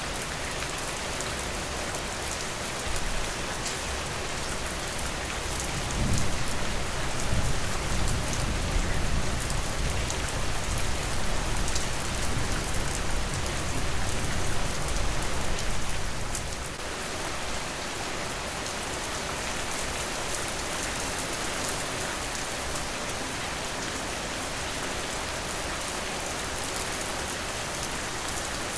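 Steady rain falling, an even hiss with scattered drop ticks. A low rumble swells about six seconds in and fades out some ten seconds later.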